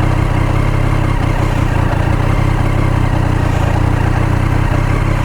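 Motorcycle engine idling steadily, close up.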